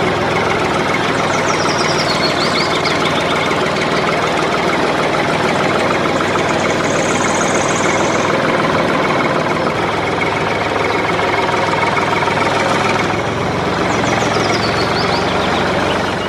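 Small diesel engine running steadily at a constant speed.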